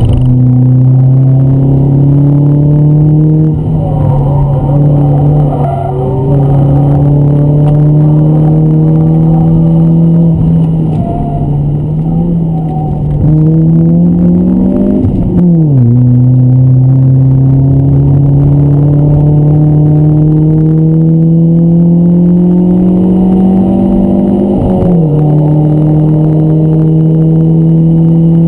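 BMW 318ti's four-cylinder engine heard from inside the cabin under hard driving, its pitch climbing slowly as the revs build. The pitch drops sharply twice, about halfway through and again near the end, as the gears change.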